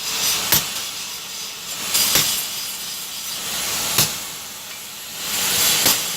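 Hand hammer blows on metal at a blacksmith's anvil: four sharp strikes a little under two seconds apart, over a steady hiss.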